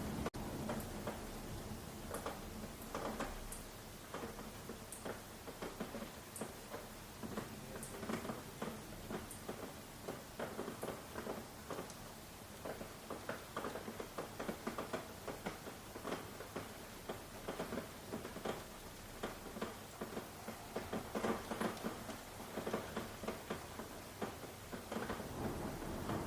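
Rain pattering steadily in an irregular spatter of drops, with a few sharp high drips in the first several seconds.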